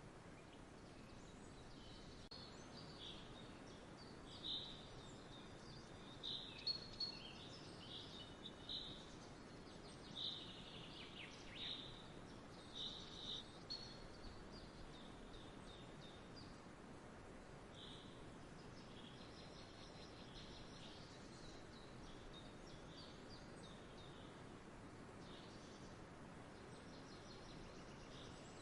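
Faint outdoor ambience: a bird chirping in short, high calls, bunched between about four and twenty seconds in, over a steady low hiss.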